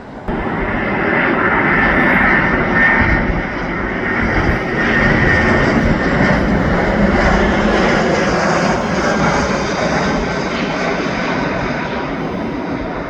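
Airliner on final approach passing low overhead, a loud engine rush with a whine, starting abruptly just after the start and easing off slowly toward the end.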